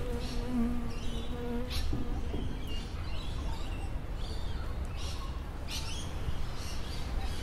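Birds chirping in short, high calls about once a second over a steady low rumble. An insect buzzes for the first couple of seconds, then stops.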